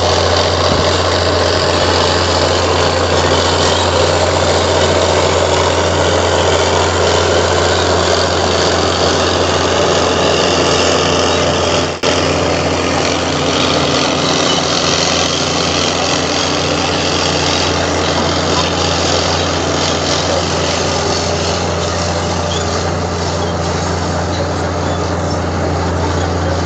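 Heavy diesel engine of earthmoving machinery running steadily, a deep constant hum under dense mechanical noise, with a brief break about twelve seconds in.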